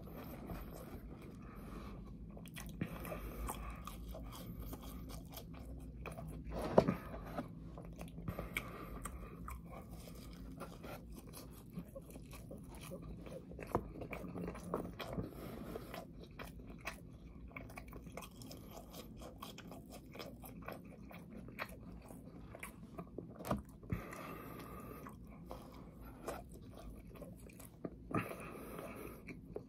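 A person chewing a mouthful of food, a continuous run of small irregular mouth clicks, with one sharp, louder click about seven seconds in.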